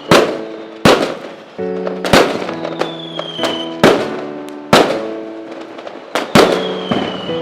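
Fireworks going off with about six loud, sharp bangs one to two seconds apart, over music with held notes and a falling whistle.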